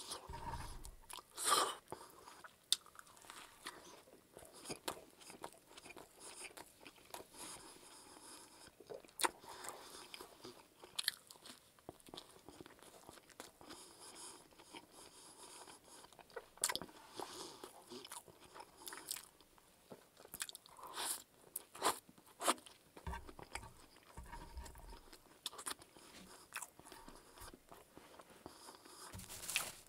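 Close-miked chewing and biting of a McDonald's Chicken Big Mac: irregular crunches of the crispy fried chicken patty and bun, scattered through the chewing.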